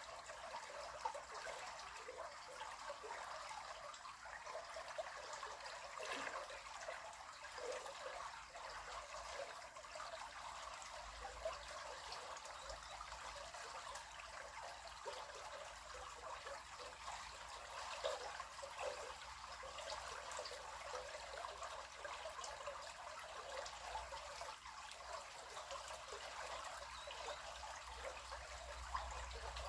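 River water flowing: a steady, trickling babble of running water.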